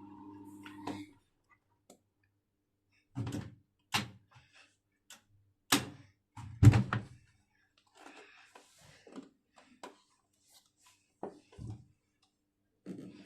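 A steady hum with a tone in it stops about a second in. Then come several separate knocks and thuds, the loudest about halfway through, followed by fainter rustling and a few more knocks near the end.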